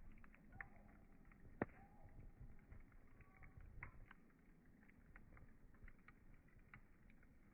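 Campfire crackling quietly: scattered small snaps of burning wood, with one sharper pop about a second and a half in.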